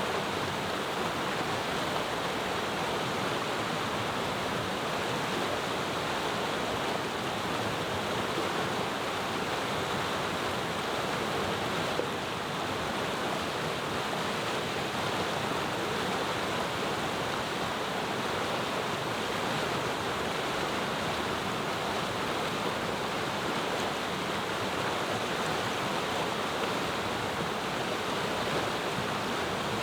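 Mountain river flowing, a steady rushing murmur of water over stones.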